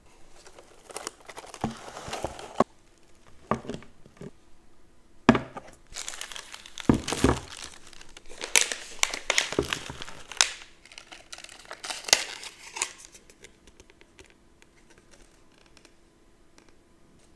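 Packaging being opened and handled: irregular bursts of crinkling with a few sharper crackles, dying away to faint ticks after about thirteen seconds.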